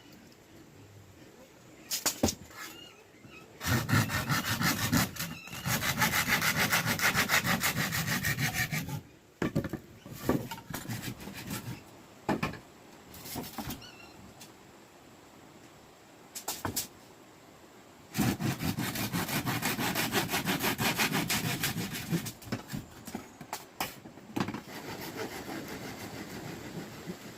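Handsaw sawing wood in two long bouts of quick, even strokes, with a few sharp knocks in between.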